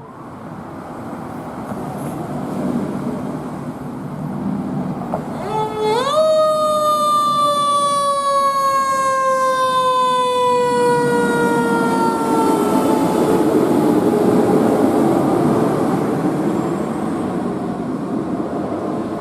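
A fire truck passing with its siren sounding. About six seconds in, the siren rises sharply to a high pitch, then glides slowly down and fades over the next several seconds. The truck's engine and tyres are loudest through the middle as it goes by.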